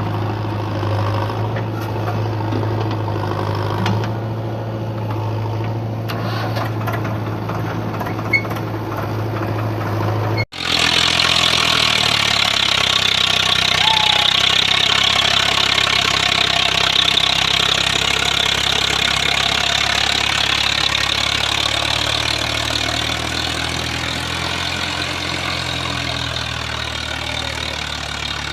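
Diesel tractor engine running steadily with a deep drone. After a sudden cut about ten seconds in, the engine is louder, with a strong high hiss over it.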